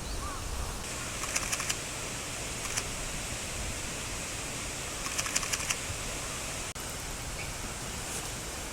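Steady outdoor background noise, with a bird's short chirp right at the start. Two quick runs of rapid clicking come about a second and about five seconds in.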